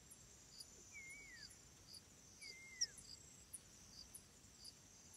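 Faint nature ambience: insects chirping in an even rhythm, about one and a half chirps a second, over a steady high buzz. A short whistled call that falls in pitch sounds twice in the first few seconds.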